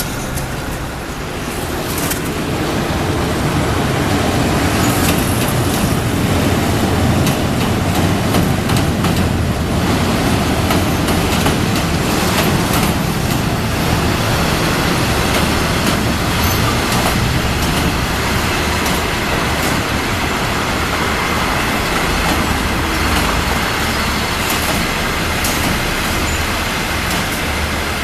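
A train passing close by on the railway bridge, wheels clattering over the rails in a steady loud rumble with many short knocks.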